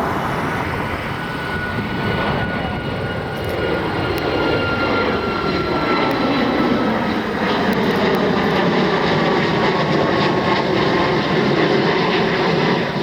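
Jet airliner's engines at takeoff power: a steady rumble that grows louder, with a high turbine whine slowly falling in pitch.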